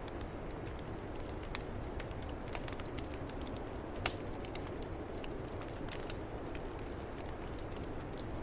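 Wood fire crackling in a fireplace, with scattered small pops and one sharper pop about four seconds in, over a steady low rush of snowstorm wind.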